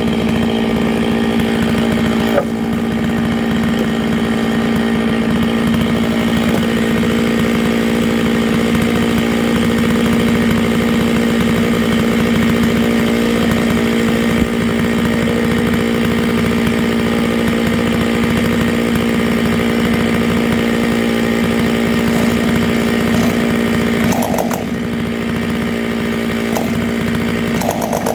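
Stihl MS 660 two-stroke chainsaw running at a steady high speed as it rips a dry larch round along the grain, its pitch held nearly level throughout. The loudness dips slightly near the end.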